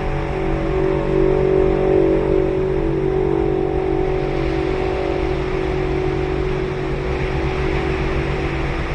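Ocean surf washing on the beach, with a steady engine drone over it that is strongest in the first few seconds and eases in the second half.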